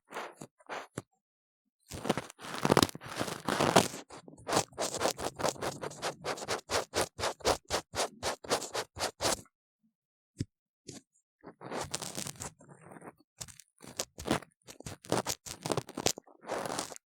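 Ear pick scraping and scratching hard inside a silicone ear model. It goes in repeated strokes, with a fast run of short strokes at about three a second in the middle and two brief pauses.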